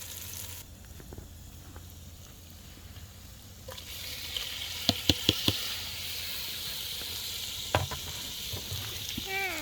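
Chicken sizzling as it goes into a hot pot over a campfire. The hiss starts about four seconds in and runs on, with a few sharp clicks and knocks from the pot and utensils.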